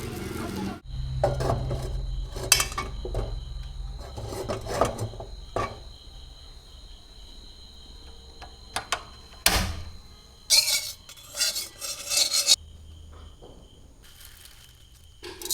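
Kitchen handling noises during food preparation: rasping and rubbing strokes with scattered sharp clicks of utensils on dishes. A quick run of louder strokes comes about two-thirds of the way through.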